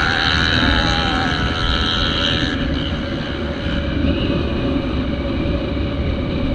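Yamaha Aerox scooter ridden at speed: the engine runs steadily under a heavy rush of wind and road noise on the microphone.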